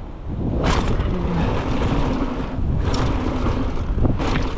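Wind buffeting the microphone over a mountain bike rolling fast down a dirt trail, with sharp clattering knocks from the bike about three-quarters of a second in and again about four seconds in. The first knock fits the bike landing a big jump.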